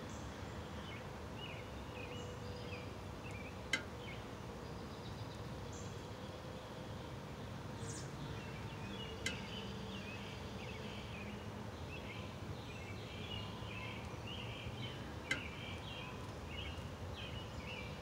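Faint, high bird chirps, a few at first and then many short ones in quick succession through the second half, over a steady background hiss and hum. Three sharp clicks stand out, at about four, nine and fifteen seconds.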